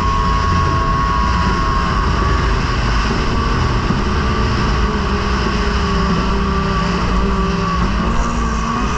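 T850 racing boat's outboard engine running steadily, heard onboard over a heavy rush of wind and water noise, its pitch drifting slightly up and back down near the end.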